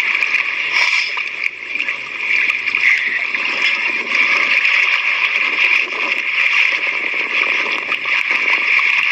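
Sea water splashing and lapping steadily, without pause.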